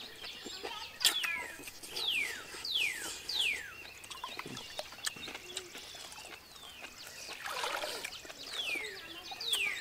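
A bird calling in series of quick, falling whistled notes: three or four in a row about two seconds in and again near the end. Scattered sharp clicks sound between them, the loudest about a second in.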